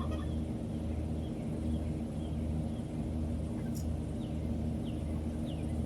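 A steady low hum with a few faint, short falling chirps in the second half, likely from a bird.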